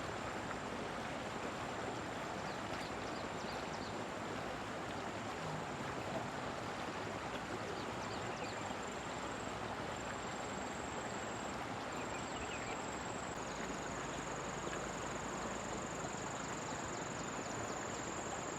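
Steady rushing of flowing floodwater, even and unbroken, with a thin, steady high whine above it.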